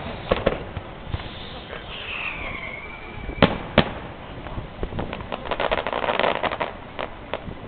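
Fireworks display: aerial shells bursting with sharp bangs, a whistle falling in pitch about two seconds in, and a dense run of crackling about six seconds in.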